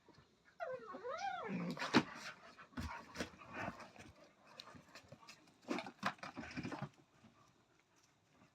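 A puppy whining, its pitch wavering up and down, about half a second in. It is followed by a run of knocks and scuffling noises, with another burst of noise around six seconds in.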